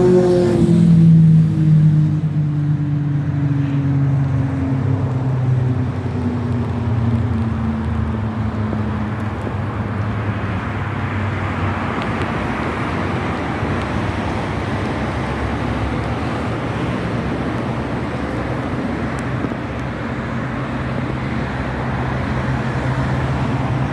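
A motor vehicle's engine, its pitch falling steadily over the first several seconds, then a steady low rumble with a road-noise hiss.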